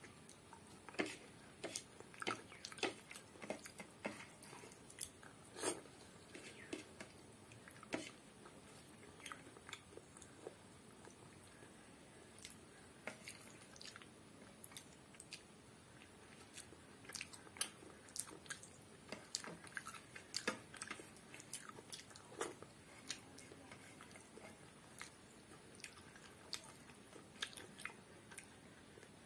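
Close-up chewing and wet mouth clicks of someone eating rice and fish curry by hand, with soft squelches of fingers mixing rice on a paper plate. The sharp smacks come irregularly, in uneven clusters.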